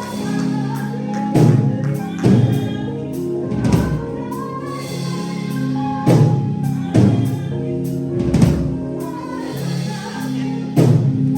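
Live gospel music: voices singing over held instrumental chords, with a heavy drum hit every second or so.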